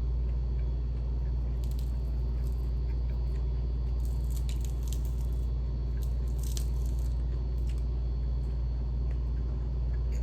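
Close-up chewing of crispy refried chicken, crunching in clusters about two, four and a half and six and a half seconds in, over a steady low hum.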